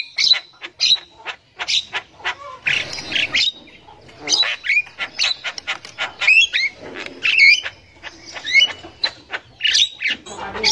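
Javan myna chattering: a rapid, uneven series of harsh squawks, sharp clicks and short rising whistles.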